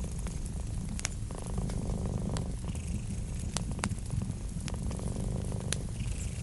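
A cat purring steadily and close up, with a few sharp crackles and pops from a wood fire.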